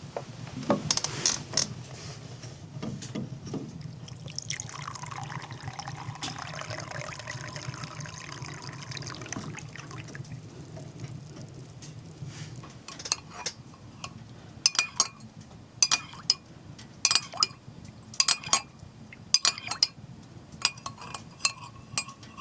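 Liquid poured into a container for about five seconds, over a steady low hum. This is followed by a run of sharp clinks, about a dozen in the last nine seconds.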